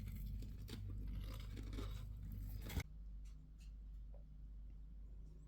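Close, crackly crunching and small clicks over a steady low hum, ending in a sharp click a little under three seconds in, after which only the faint hum and a few ticks remain.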